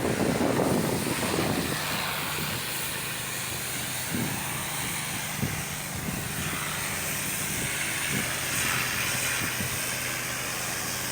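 A steady low mechanical hum, like a motor or engine running, over a constant hiss, with two brief knocks around four and five and a half seconds in.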